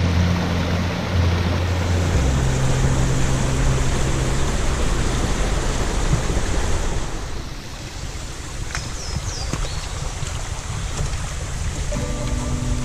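Steady rushing noise under background music with slow, sustained low notes; the noise eases about two-thirds of the way through.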